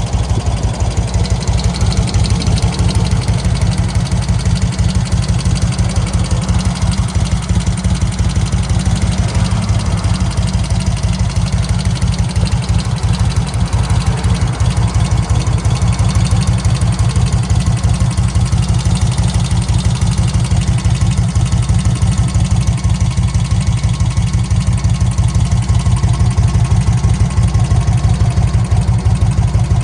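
1991 Magni Sfida 1000's air-cooled Moto Guzzi V-twin engine idling steadily, with an even low beat throughout.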